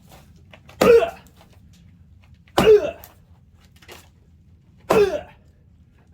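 Three heavy splitting-axe blows into a large log, each with a man's short shouted grunt, about two seconds apart.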